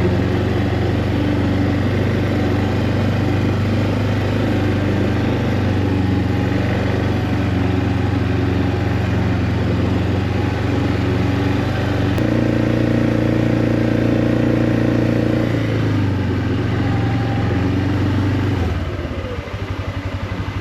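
Vehicle engine running steadily while being driven; its pitch steps up about twelve seconds in, then drops back and settles to a slower, lower idle near the end.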